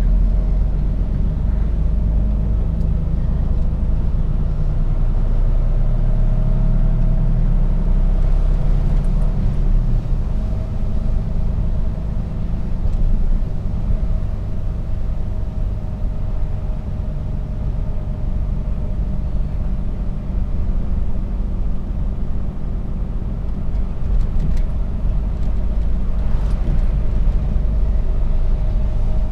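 Mercedes-Benz Actros truck under way: steady diesel engine drone and road rumble, with a faint steady whine above it. The low rumble is heavier for the first ten seconds or so, then eases a little.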